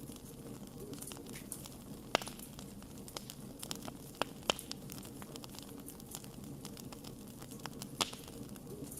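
Wood fire burning, with a steady low rumble and irregular sharp crackles and pops, the loudest pops about two seconds in and near the end.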